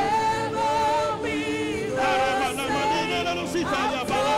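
Congregational worship singing: a choir and congregation sing a slow, sustained worship song with held notes.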